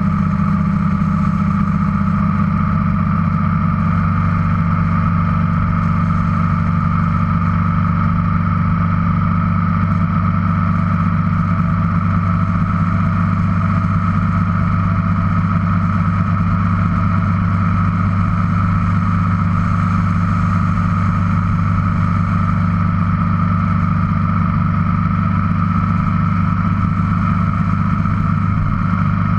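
Motorcycle engine running steadily at cruising speed, with no change in pitch.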